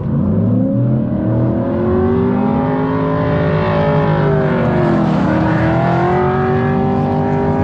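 C5 Corvette's LS1 V8 engine running hard, its pitch rising and falling with the revs, as in a drift run.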